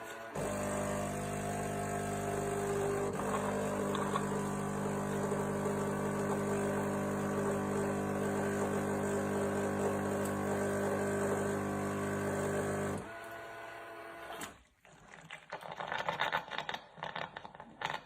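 Krups EA815070 fully automatic coffee machine running with a steady electric hum, which stops about 13 seconds in. A few seconds of soft, irregular sputtering follow.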